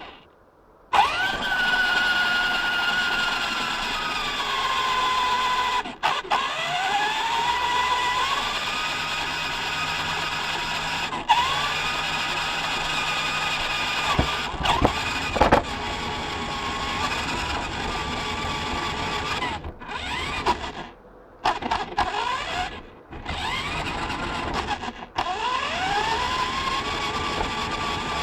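Electric motor and gears of a radio-controlled model truck whining. The pitch rises each time the truck speeds up, then levels off, and the whine stops and starts again several times.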